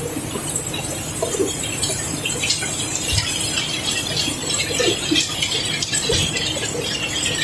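Cobblestones pouring and tumbling against each other: a dense clatter of many small stone clacks that grows busier about two seconds in, over a steady low machinery hum.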